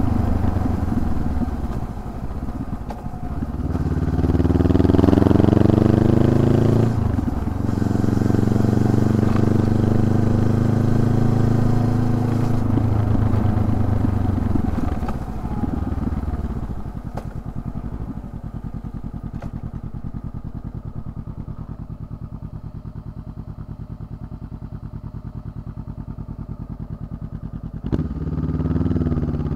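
Honda CB500X parallel-twin engine under way: it rises in pitch under acceleration, changes gear about seven seconds in, holds a steady cruise, then eases off. For the latter part it runs at low revs with an even pulsing note, and picks up again near the end.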